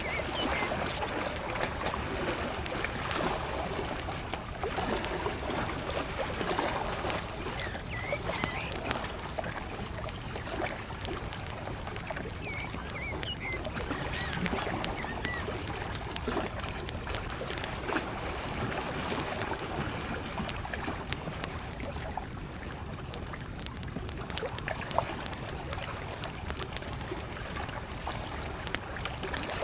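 Small waves lapping at a lake shore, with a wood campfire crackling and popping in sharp little clicks. A few short bird chirps come through now and then, a handful in the first half.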